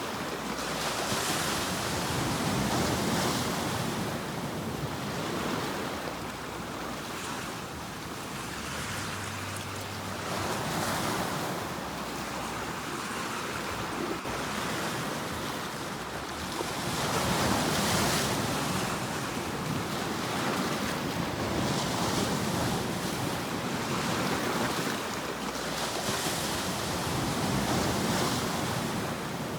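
Ocean waves breaking and washing up a shore, the surf swelling and falling back in repeated surges every few seconds, with a steady hiss of spray.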